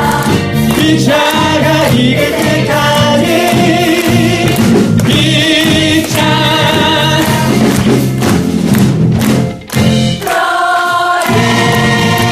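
Musical-theatre ensemble singing together with instrumental accompaniment, voices with vibrato; after a brief break about ten seconds in, they hold a long final chord.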